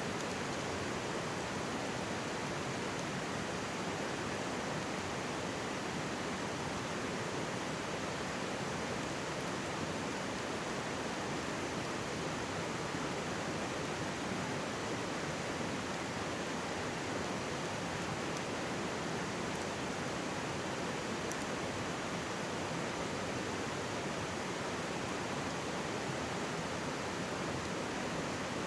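Mountain stream babbling steadily, a continuous rush of water, with an occasional faint crackle from a wood campfire.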